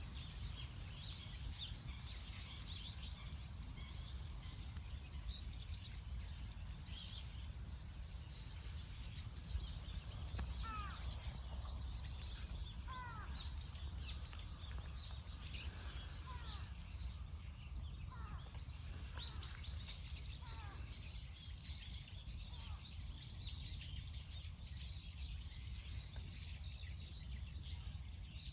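Wild birds chirping and calling, with many short high chirps throughout and a few downward-sliding calls, over a steady low outdoor rumble.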